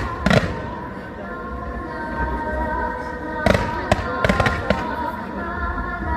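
Aerial fireworks shells bursting with sharp bangs, one about a third of a second in and a rapid cluster of reports a few seconds later, over steady music.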